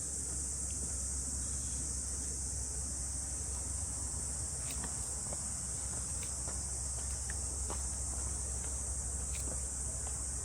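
Summer cicada chorus in the forest: a steady, high-pitched, unbroken drone. A few faint ticks sound over it.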